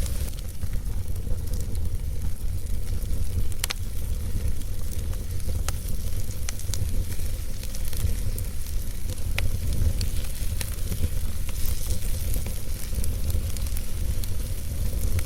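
Wood fire burning in a fireplace: a steady low rumble of flames and a hiss, with scattered crackles and two sharper pops of the logs, about four seconds in and again about nine seconds in.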